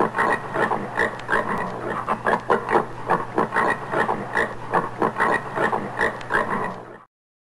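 Common warthog grunting: a fast series of short grunts, about three or four a second, that stops abruptly near the end.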